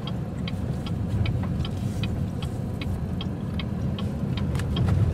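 Car cabin road and engine rumble while driving, with a turn signal clicking about two and a half times a second.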